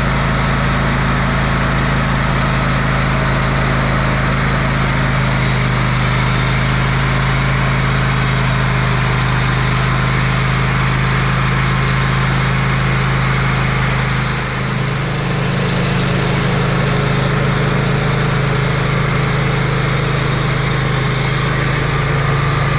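Engine-driven sawmill running steadily while cutting a log into lumber, its engine humming under a dense hiss of the cut. About 14 seconds in, the engine note shifts and the level dips briefly.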